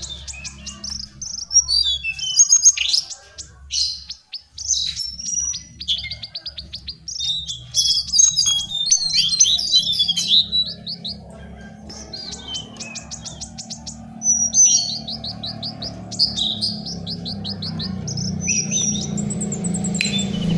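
Lesser shortwing singing: bouts of high, rapid trills and jumbled warbling phrases, with short pauses between them, over a low steady hum.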